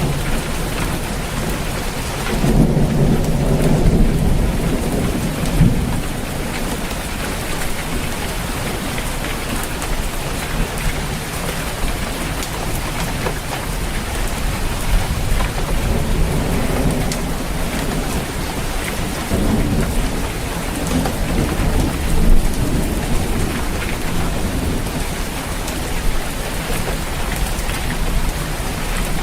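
Steady heavy rain pattering on a roof, with low rolling thunder that swells about two and a half seconds in and fades by six seconds, and softer rumbles later on.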